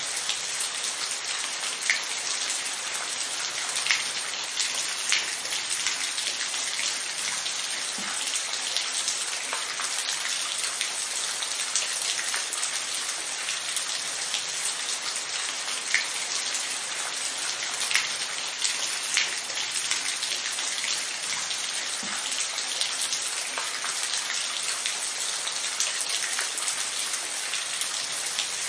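Steady rain falling in an even hiss, with scattered louder single drops striking a surface every few seconds.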